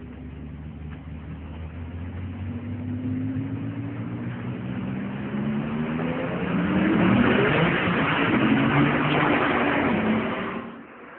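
High-performance car engine accelerating flat out from first gear, its note climbing and growing louder through the run, then falling away abruptly near the end.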